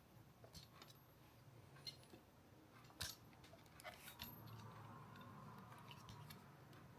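Near silence broken by a few faint, sharp clicks and taps, the clearest about three seconds in: small hard parts of a camera rig being handled.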